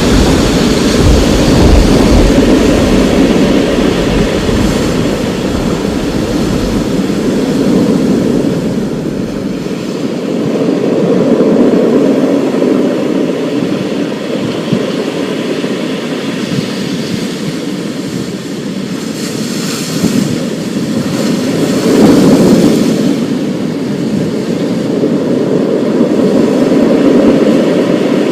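Thunderstorm: a steady rushing storm noise that swells and fades every several seconds, with a deep rolling rumble of thunder through the first eight seconds or so that then dies away.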